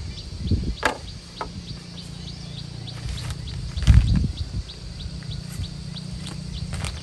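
Regular high-pitched chirping, about two or three short chirps a second, over a steady low hum. A few sharp knocks, and a heavier thump about four seconds in.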